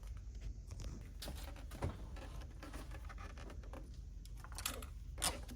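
Irregular light clicks, taps and scrapes of hard plastic against metal as a plastic intake manifold is wiggled into place under the fuel rail and wiring harness, with a few sharper knocks.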